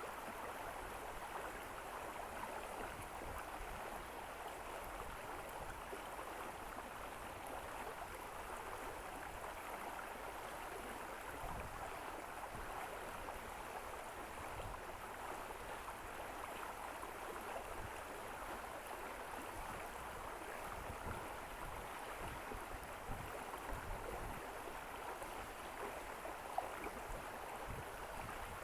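A stream of water flowing and babbling steadily, with small clicks and a few soft low bumps.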